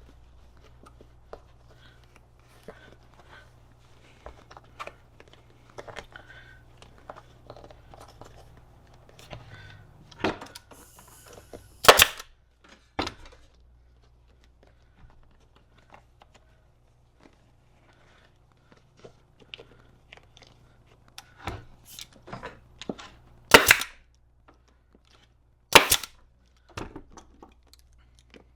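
A staple gun firing staples through a vinyl seat cover into the seat pan: several sharp shots a second to a few seconds apart. Fainter handling and rustling sounds of the cover come between the shots.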